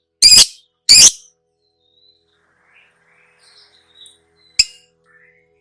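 Lovebird giving two loud, shrill calls about a second apart near the start, then a single sharp chirp near the end, with faint twitters between.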